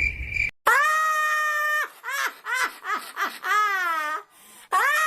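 A cartoon voice screaming: one held high scream of about a second, then several wavering, rising-and-falling wails like crying. A brief steady high beep sounds just before the screaming starts.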